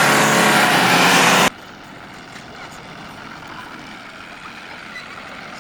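Tractor diesel engine running hard and loud under a heavy load, with a steady low pitched note. About a second and a half in, the sound drops suddenly to a much quieter, steady engine hum.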